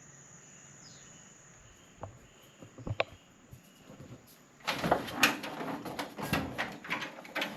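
A few scattered knocks, then from about two-thirds of the way in a loud run of rapid clattering and knocking, like a door or household objects being handled. A steady high insect chirring sounds faintly throughout.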